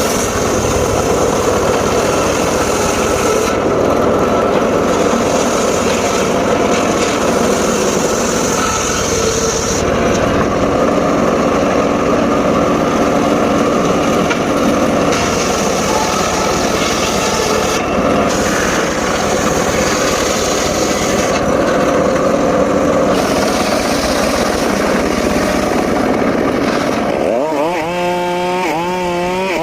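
Homemade circular saw ripping through mahogany, a loud steady cutting noise with a higher hiss that comes and goes as the blade bites. Near the end the cutting noise gives way to a wavering whine.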